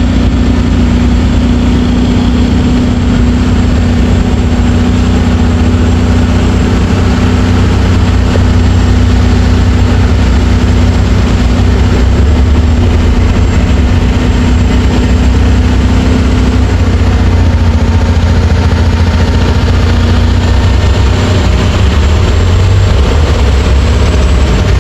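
Heavy diesel engine running steadily, loud and deep, with a steady low drone.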